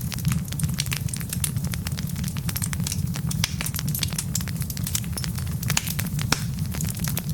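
Wood fire burning in a fireplace: frequent sharp crackles and pops from the logs, several a second, over a steady low rumble.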